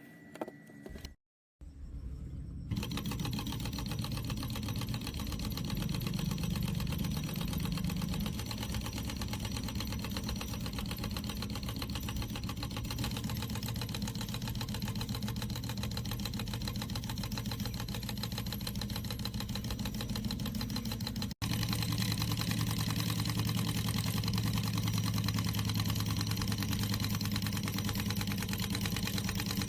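Diesel engine education model running steadily with a fast, even mechanical rhythm. It cuts out for an instant about two-thirds of the way through and carries on slightly louder.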